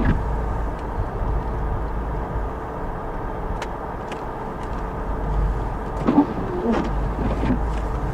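Steady low rumble of an idling vehicle engine, with a steady hum above it.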